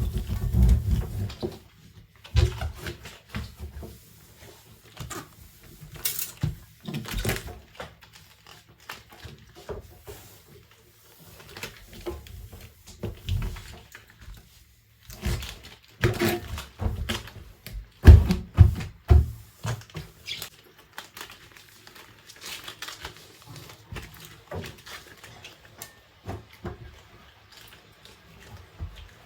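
Dishes and utensils knocking and clinking against each other and the sink as they are handled, in irregular bursts with short pauses. The loudest knocks come at the very start and about two-thirds of the way through.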